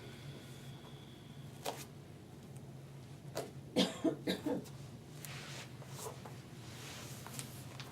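A person coughing, a quick run of four or five short coughs, over a steady low hum.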